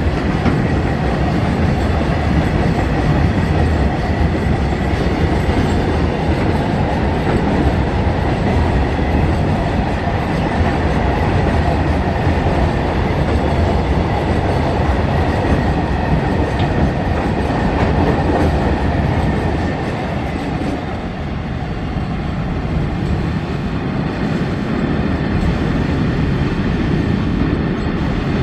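Freight train of BOXN open wagons rolling past at speed, a steady rumble and clatter of wheels on the track. The noise drops a little about twenty seconds in as the end of the train goes by.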